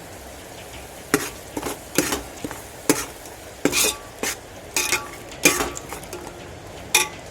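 A metal utensil stirring and scraping a cooking pot, with about ten irregular clinks against the metal, over a faint steady sizzle. The yogurt is being stirred into the frying onion-tomato masala.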